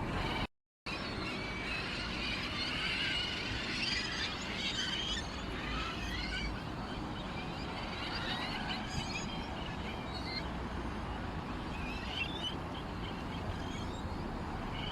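Small birds, sparrows, chirping and twittering in a busy overlapping chorus over a steady low background hiss; the sound drops out completely for a moment about half a second in.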